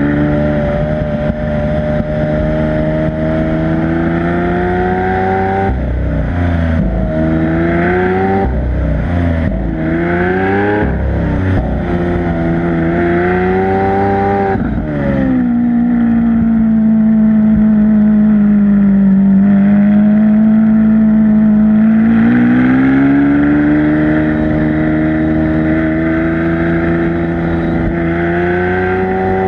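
Lamborghini Aventador LP700-4's V12 engine, with factory racing exhaust, running under way. Its revs rise and fall repeatedly in sharp steps through the middle, then hold steady for a while and climb again near the end.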